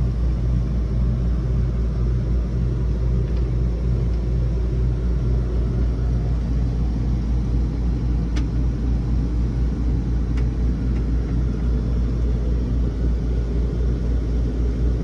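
Steady low mechanical rumble and hum of running machinery, unchanging in level, with a couple of faint clicks near the middle.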